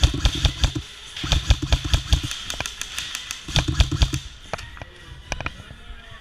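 Airsoft guns firing in several rapid bursts, a fast run of sharp clicks with low thumps beneath, then thinning out to scattered single clicks.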